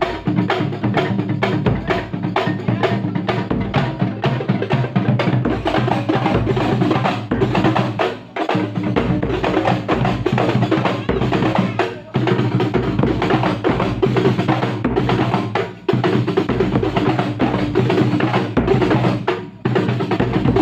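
A kuntulan percussion ensemble of frame drums and bass drum playing a fast, dense rhythm, broken by brief pauses about every four seconds.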